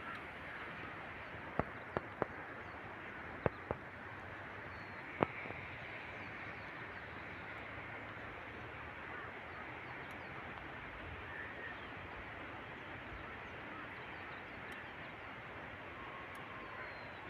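Steady outdoor rushing noise, with six sharp clicks in the first five or six seconds and a few faint, short bird-like chirps.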